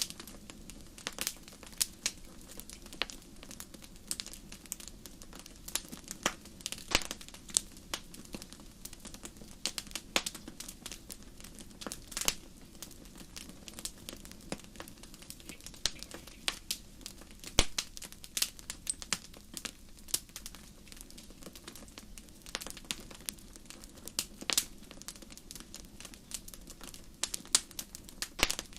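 Wood fire burning, crackling and popping irregularly over a low steady rush of flame.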